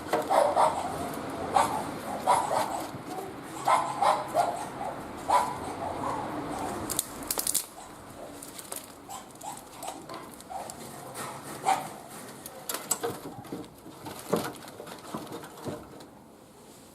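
Wood fire crackling with sharp pops in a barbecue grill. Over it come repeated short whining calls, busiest in the first half.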